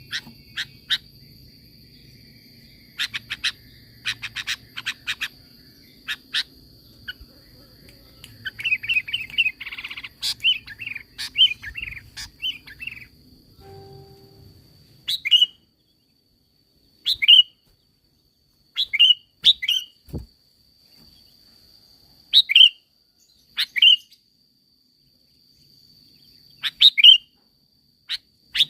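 Sooty-headed bulbul (kutilang) singing: quick series of short sharp chirps, then a fast chattering run, then short down-sweeping calls, single or paired, every couple of seconds.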